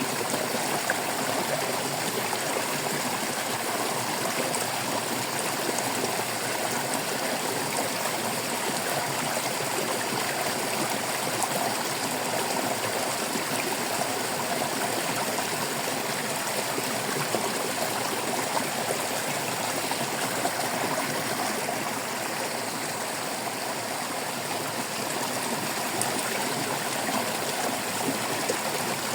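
Shallow stream babbling and trickling steadily over rocks.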